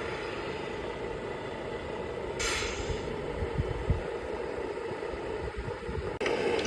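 Tamiya 1:14 scale RC truck running with a steady engine-like drone, with a short air-brake-style hiss about two and a half seconds in and a few low thumps just after. The sound changes abruptly near the end.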